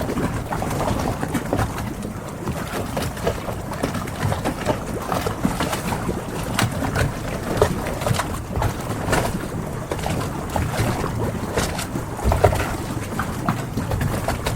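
Harbor ambience: a steady wash of water with frequent small knocks and creaks, and birds calling now and then.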